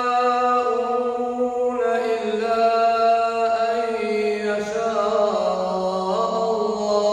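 Male Quran reciter chanting in melodic tajwid style, drawing out long held notes that step slowly from pitch to pitch.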